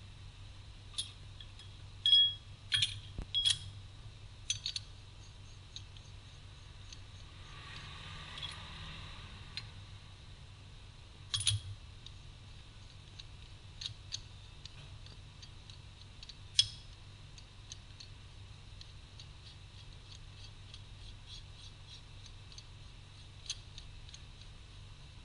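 Scattered sharp metallic clinks and taps of hand tools and parts being handled, a cluster in the first few seconds and single ones later, with a soft scraping about a third of the way in, over a low steady hum.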